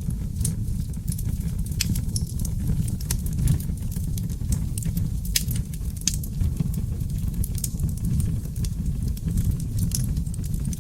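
Wood fire of oak logs burning in a fireplace, crackling and popping irregularly over a steady low rumble of flames, with a few sharper pops.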